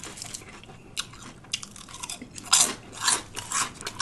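Close-up chewing of a lettuce-wrapped Italian sub, crisp lettuce crunching with wet mouth clicks, louder bites about two and a half seconds in.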